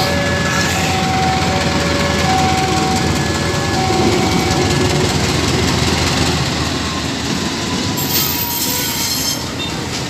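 Train on the move in a station yard during shunting: a steady rumble of wheels on the rails, with short high-pitched tones coming and going in the first half and a brief hiss about eight seconds in.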